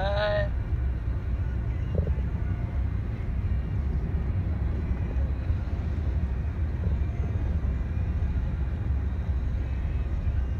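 CSX freight train of hopper and gondola cars rolling through a grade crossing, a steady low rumble heard from inside a car.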